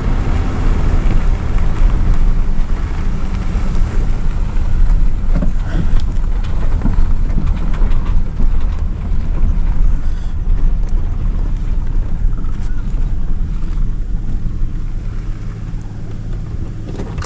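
Vehicle driving, a steady low engine and road rumble with scattered small knocks, easing off over the last few seconds as it slows.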